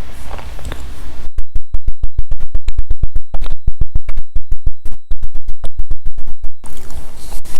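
Loud electrical crackle from a badly connected microphone: after about a second of hiss, a fast, regular train of sharp clicks with dead silence between them runs for about five seconds, with a thin high whine, then gives way to hiss again near the end.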